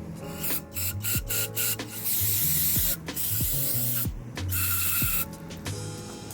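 Two long hissing spray bursts, about two seconds and four and a half seconds in, the second with a faint whistle in it, over background music.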